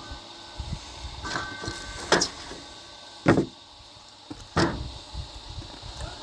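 A few separate knocks and clunks, a second or so apart, the loudest about three seconds in, from handling workpieces and tools at a woodworking bench between saw cuts.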